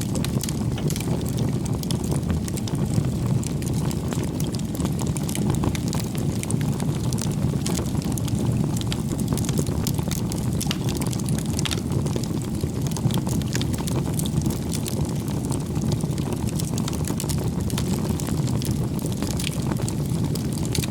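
Firewood burning in a bonfire: a steady low rush of flames with frequent sharp crackles and pops from the burning wood.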